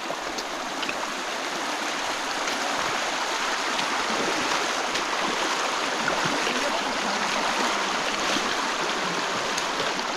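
River water rushing, a steady dense wash that grows a little louder over the first few seconds.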